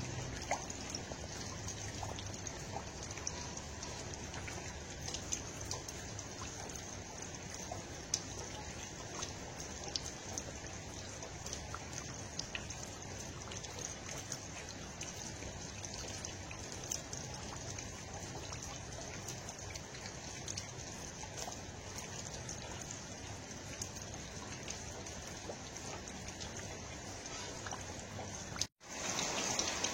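Steady water noise with scattered faint ticks, cut off briefly about a second before the end.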